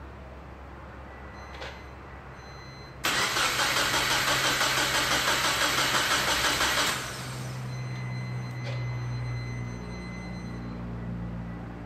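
Subaru Forester XT's turbocharged flat-four engine being cranked over by the starter for about four seconds, an even rapid pulsing that starts suddenly about three seconds in and cuts off without the engine running. A quieter steady low hum follows.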